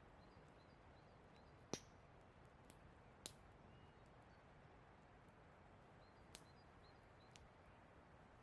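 Campfire of burning wood crackling faintly: a few sharp, scattered pops, the loudest about two seconds in, over a quiet steady hiss.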